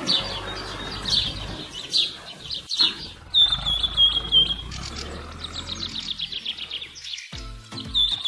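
Birds chirping, with quick repeated chirps and short descending trills, over a faint low hum. Music with a steady beat comes in about a second before the end.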